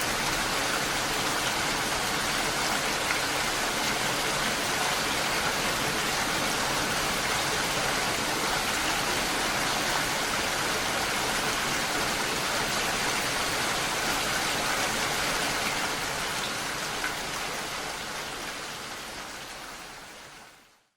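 Steady rain falling, an even hiss that fades out over the last few seconds.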